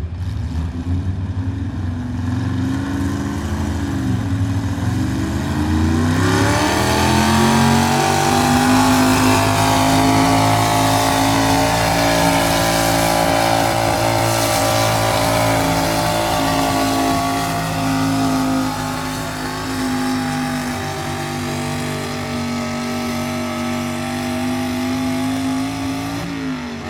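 Pulling truck's engine at full throttle on a truck pull. The revs climb about a quarter of the way in, hold high and steady for most of the pull, then fall away at the very end as the run finishes.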